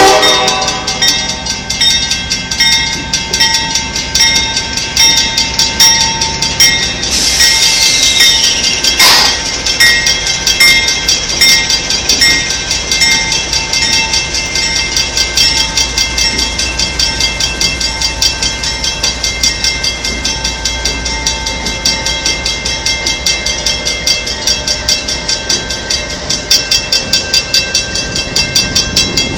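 Cement freight train rolling past, its wheels clicking in a steady rhythm over the rail joints, with steady high ringing tones over it. A brief falling screech comes about eight seconds in.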